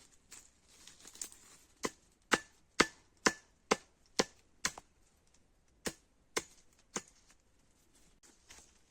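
Axe chopping wood: a run of about seven sharp strikes at roughly two a second, a short pause, then three more.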